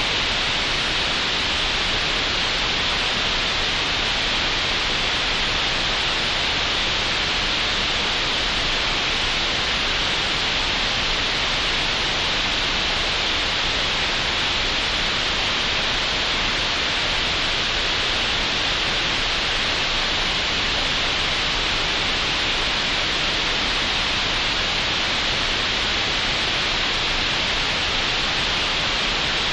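Synthetic green noise generated in Audacity: a steady, even hiss that never changes, with a hissy upper-middle emphasis and no trace of anything else.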